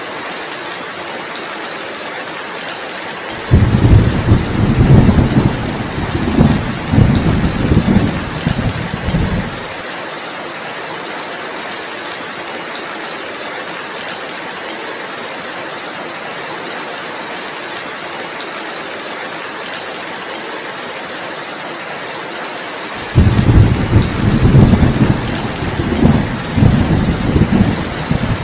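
Steady heavy rain, with two long rumbles of thunder of about six seconds each, one a few seconds in and one near the end.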